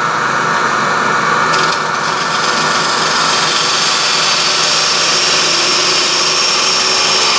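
Wood lathe running while a parting tool is pushed into the spinning wooden blank, making a steady cutting noise that turns sharper and brighter about a second and a half in.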